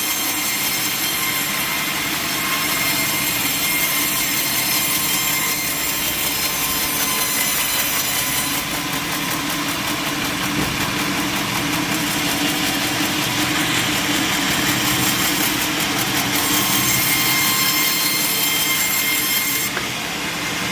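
Sawmill machinery running steadily: an engine and saw working without a break, with several steady tones over the noise.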